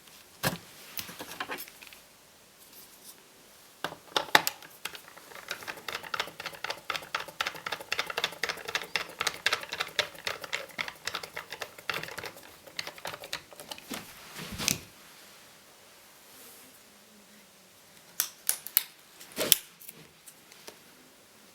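Light plastic and metal clicks and ticks from hands working on an Acer Aspire 5732ZG laptop: a few separate clicks, then a long run of quick small ticks, a heavier knock about fifteen seconds in, and a few more clicks near the end.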